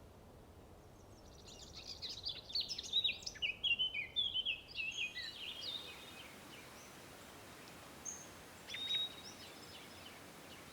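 A songbird singing a quick, jumbled run of chirps and trills for a few seconds, followed by two short calls near the end.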